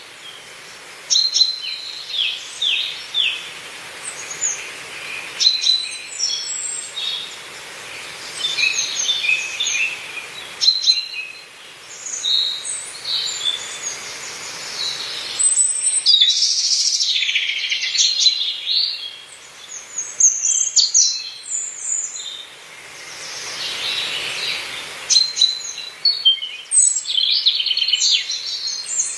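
Several wild birds singing and chirping, with overlapping quick trills and calls. A soft rush of breeze swells up twice, around the middle and again later.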